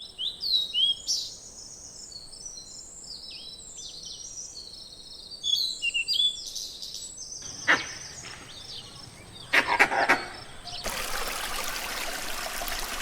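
Small birds chirping and calling in quick, high notes, with a couple of brief sharp noises in between. About eleven seconds in, a steady rush of flowing water takes over.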